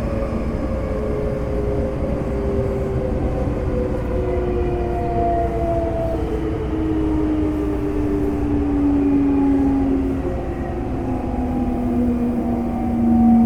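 Semboku Rapid Railway 5000 series train's Hitachi GTO VVVF inverter and traction motors whining with a steadily falling pitch as the train slows for a station stop, over steady wheel-and-rail rumble, heard inside the car.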